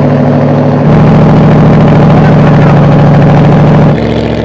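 Off-road 4x4 truck engine running at a steady speed, one constant note. It abruptly gets louder about a second in and abruptly quieter near the end.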